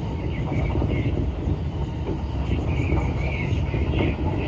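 Train running on the rails past a station platform: a steady rumble of wheels and running gear, with brief higher squealing notes of wheel on rail.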